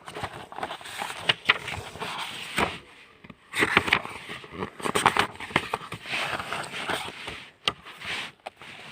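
Paper book pages being leafed through, rustling and flapping in irregular bursts.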